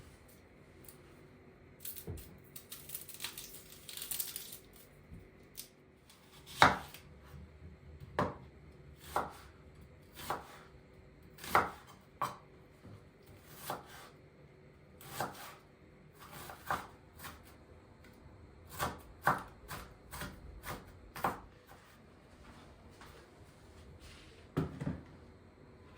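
Knife chopping on a cutting board in single, uneven strokes about once a second, with a short rustle before the chopping starts.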